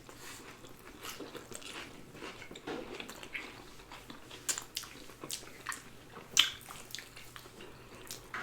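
Close-miked mouth sounds of people chewing and biting food, with irregular moist clicks and light crunches; one sharper click comes a little past the middle.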